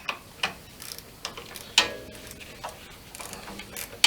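Irregular metallic clicks and clinks of hand tools working the bolt and clamp of a motorcycle slip-on exhaust muffler. One clink just before two seconds in rings briefly.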